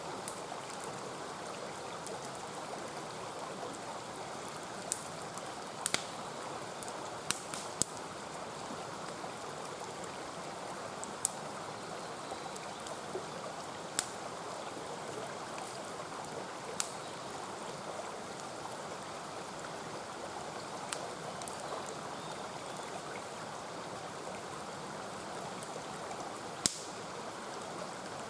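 Mountain stream rushing steadily, with sharp pops and cracks from a wood campfire every few seconds, a few of them in quick pairs.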